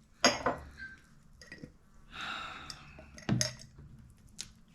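Kitchen utensils and dishes clinking and knocking: a few separate sharp knocks, with a short rasping noise about two seconds in.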